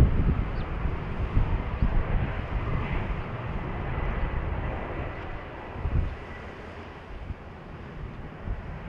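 Wind buffeting the microphone in gusts over the steady hiss of a Boeing 737-500's jet engines, with a faint thin whine, fading slowly as the aircraft moves off.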